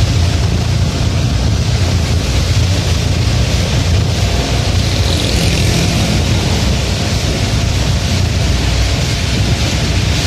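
Steady low vehicle rumble under a continuous hiss of rain, with no break or change.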